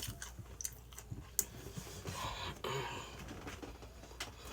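A person chewing food close to the microphone, with soft wet mouth sounds and a few small clicks.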